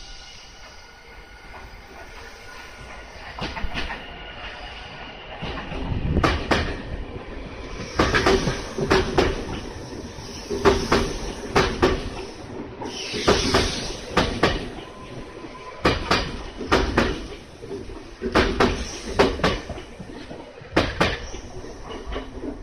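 Senboku Rapid Railway electric train (set 7521F) pulling out and running past, its wheels clacking in pairs over the rail joints as each bogie goes by, over a steady rumble. A faint steady whine comes first, before the clacking starts.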